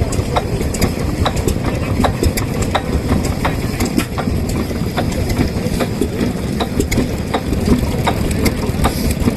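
Vintage single-cylinder kerosene stationary engines running, a dense low chugging with a sharp click a little over twice a second.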